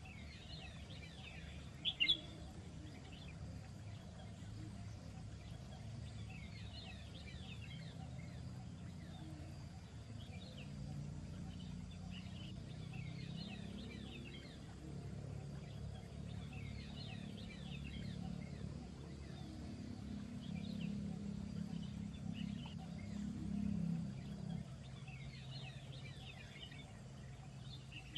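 Small birds chirping in repeated bursts of short, quick notes, with one sharp, loud chirp about two seconds in. A low steady rumble runs underneath.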